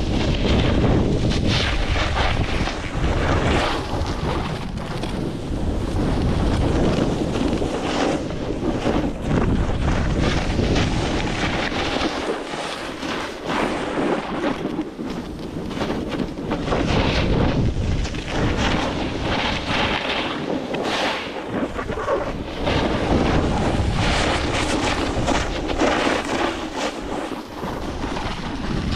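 Blizzard wind blasting the microphone, loud and gusting, easing briefly about halfway through and again near the end.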